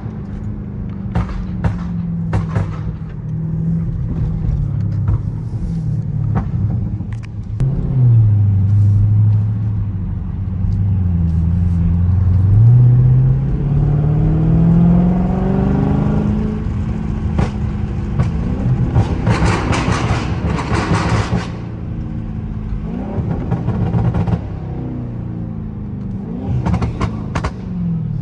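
Dodge Charger 392's 6.4-litre HEMI V8 on a drive, its note falling about a quarter of the way in and then climbing steadily as it pulls. Bursts of crackling exhaust pops about two-thirds through and again near the end, from a pop-and-crackle tune.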